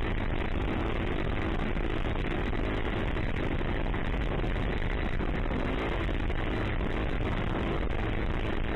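Dirt bike engine running at a fairly steady speed, with little change in revs, mixed with a constant noisy rush.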